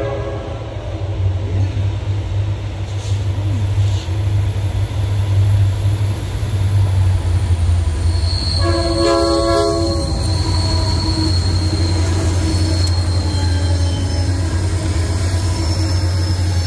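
Diesel freight train running with the steady low rumble of its EMD diesel locomotives, and a short horn blast about halfway through. From the horn blast on, a thin, high, steady wheel squeal runs over the rumble.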